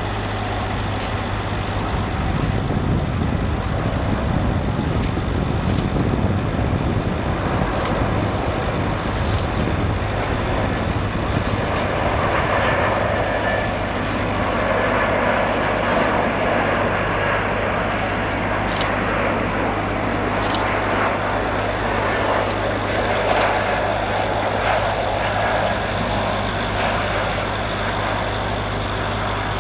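Airbus A340-300 airliner's CFM56 jet engines running, a loud steady rumble with a constant low hum.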